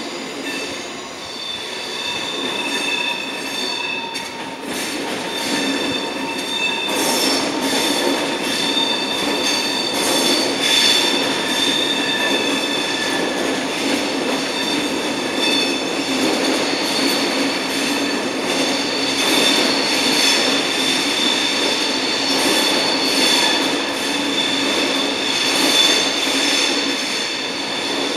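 Passenger train moving slowly through the station tracks: a steady high-pitched wheel squeal, several tones at once, over a rumble of wheels, with scattered clacks as the wheels cross rail joints and points.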